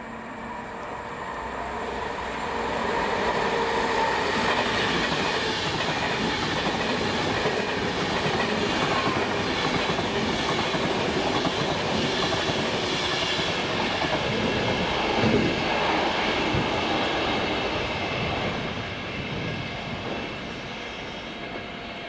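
Class 390 Pendolino electric train passing at speed, its wheels running on the rails. The sound grows louder over the first few seconds, holds steady, then fades near the end.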